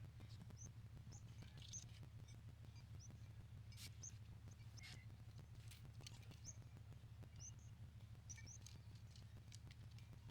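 Small birds chirping faintly in short, scattered high calls over a low, steady background rumble, with a few light clicks.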